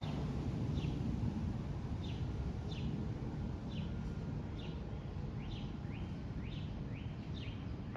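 A bird calls a short, falling chirp over and over, about once a second, above a faint low steady rumble.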